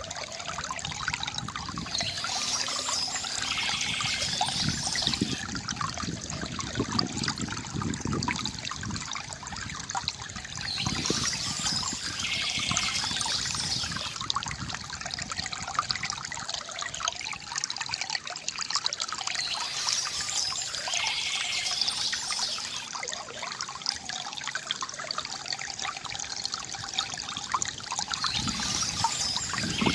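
Water from a bamboo fountain trickling and gurgling steadily.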